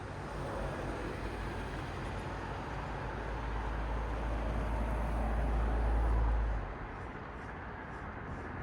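Road traffic, a steady tyre-and-engine hiss with one car passing close: its low rumble builds over a few seconds, peaks about six seconds in, then drops away suddenly.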